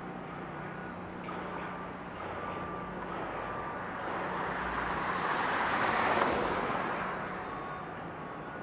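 A reversing alarm beeping about once a second over a steady engine hum, while a passing vehicle's noise swells and fades, loudest about six seconds in.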